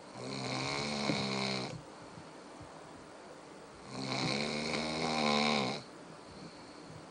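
Dog snoring: two long, buzzing snores about four seconds apart, with quiet breathing between them.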